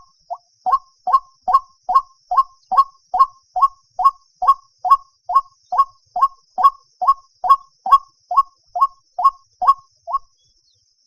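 White-breasted waterhen calling: a steady run of short, repeated 'kook' notes, about two or three a second, that stops about a second before the end.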